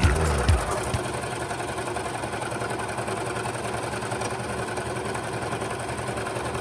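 Brother 1034DX overlock serger running steadily at speed, stitching through fabric with a fast, even mechanical chatter.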